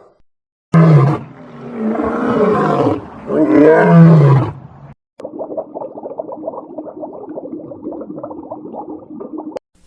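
A big cat roaring: three loud, rough roars in quick succession, each falling in pitch. After a brief break, a quieter, continuous rough sound follows, low and muffled.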